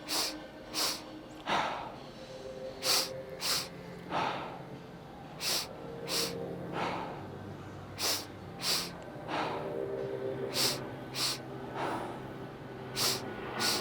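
Double-breath pranayama: sharp, forceful breaths through the nose in quick pairs, about half a second apart, a pair every two to three seconds, over a faint steady background hum.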